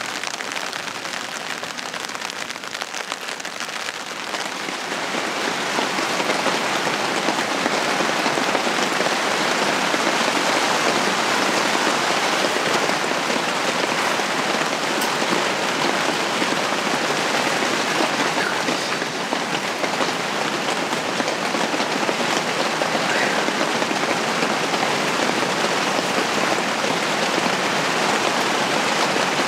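Steady rain drumming on the fabric of a camping tent shelter, heard from inside. It grows louder about five seconds in and then holds steady.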